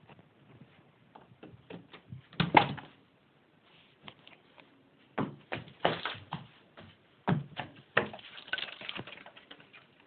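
A cat's paws pattering and scrabbling across a hard floor in irregular bursts, with scattered knocks and thumps. The loudest are about two and a half seconds in and again near the middle and toward the end.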